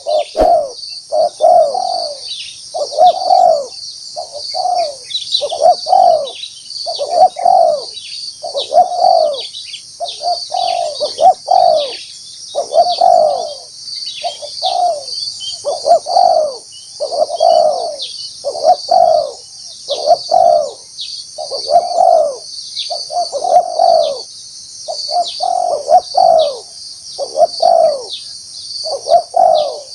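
A spotted dove cooing over and over in short phrases, about one call every second or so, as a trained decoy calling to draw in wild doves. A steady high-pitched buzz runs underneath.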